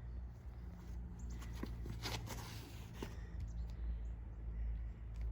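Footsteps and scuffs of a disc golfer's run-up and throw from the tee, a few soft knocks with a brief rustle a little over two seconds in, over a steady low wind rumble on the microphone.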